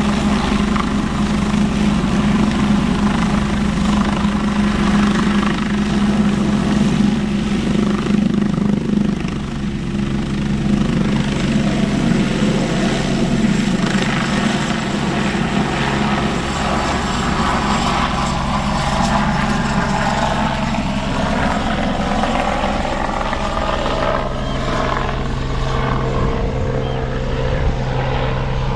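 Helicopter running, its rotor and engine making a steady loud hum that shifts to a lower pitch about ten seconds in.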